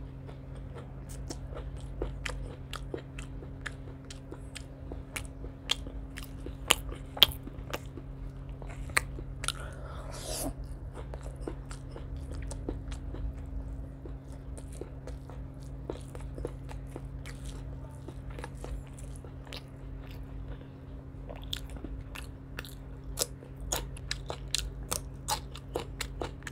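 Close-up eating sounds: biting and chewing raw leafy green stems together with rice and curried chicken gizzards and liver. It is a steady run of crisp crunches and wet mouth clicks over a low steady hum, with a couple of sharper crunches about seven seconds in.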